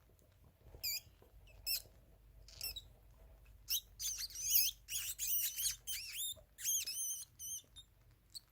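A small rodent squeaking: a few single high-pitched, wavering squeaks at first, then a rapid run of them from about halfway through, thinning out near the end.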